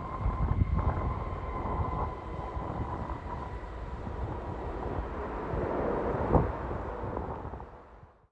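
Jet airliner engines running as the aircraft passes: a steady whine over a broad rumble, with wind buffeting the microphone. The sound fades away near the end.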